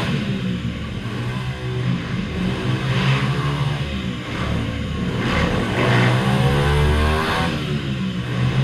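Several small minibike engines racing around a circle track, their pitch rising and falling over and over as they rev up and back off.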